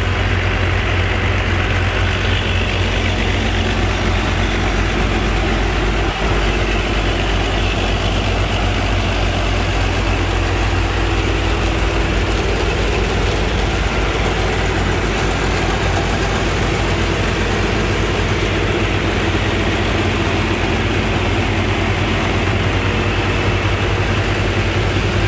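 Engine of a sand-pumping boat running steadily under load as it drives the sand pump, with a continuous low drone.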